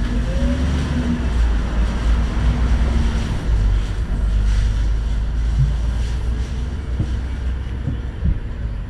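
Tram in motion: a steady, heavy low rumble of the running gear on the rails, with a few short knocks near the end.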